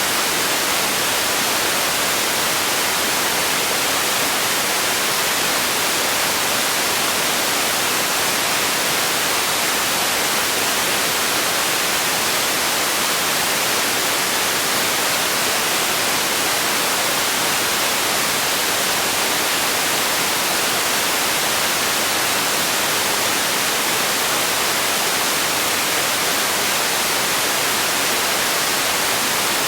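Steady white noise: an even, unchanging hiss with no breaks, brightest in the treble.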